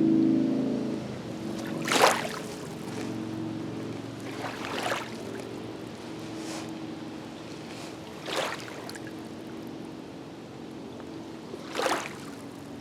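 Small waves splashing against a rocky shore, four separate splashes a few seconds apart. Under them runs the steady hum of a motor, loud at first and dropping within the first second, then fainter.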